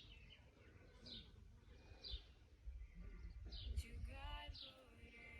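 Quiet outdoor ambience: small birds chirping in short, high, falling notes about once a second over a low rumble, with a brief pitched call about four seconds in.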